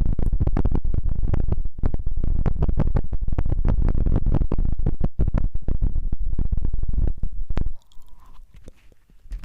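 Close-miked scrubbing and crackling at the microphone, ASMR-style, with a heavy rumble under fast, dense crackles; it stops abruptly near the end, leaving a few faint ticks.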